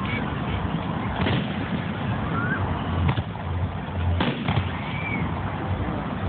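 Aerial fireworks bursting: four sharp bangs, mostly a second or two apart, over a continuous low rumble of further bursts.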